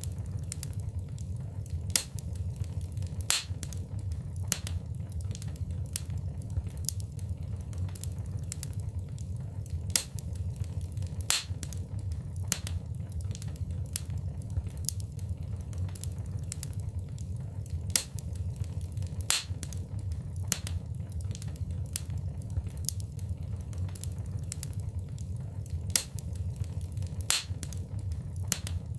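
Wood fire crackling in a fireplace: a steady low rumble of flames with irregular sharp snaps and pops, a louder crack every couple of seconds.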